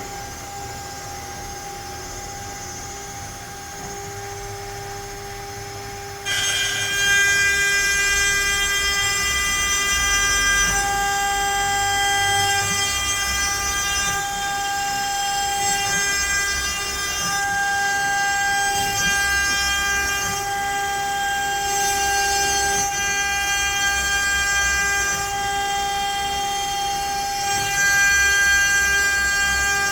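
CNC router spindle whining while milling letters into pine. About six seconds in, the sound jumps louder and higher as the bit cuts into the wood, and the cut continues as a steady, rough high whine that rises and falls a little in loudness.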